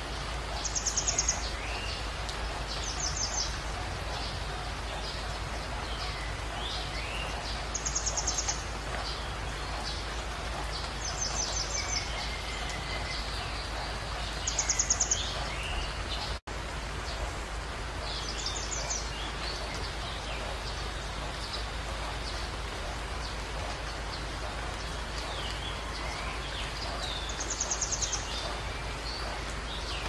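Songbirds calling: short, high, rapid trills about half a second long, repeating seven times at uneven intervals, with thin chirps in between, over a steady outdoor noise. The sound drops out for an instant about halfway through.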